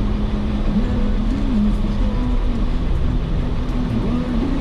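Jeep Wrangler engine running off-road over a steady low rumble, its pitch holding and then shifting up and down several times with the throttle.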